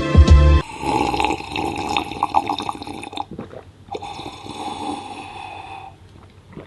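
Water sound, a splashing or trickling wash with a brief break partway through, fading out about six seconds in.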